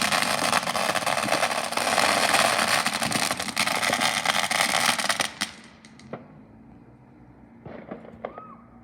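Fireworks crackling in a fast, dense run of sharp cracks for about five seconds, then stopping suddenly, followed by a few scattered fainter pops.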